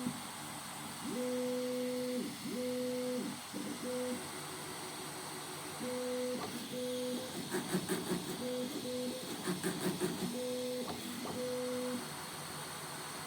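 Bambu Lab A1 3D printer's stepper motors humming through a series of short moves, each about a second long. Twice near the middle comes a quick run of taps, the kind of knocking the owner describes as the nozzle striking the PEI plate during bed levelling.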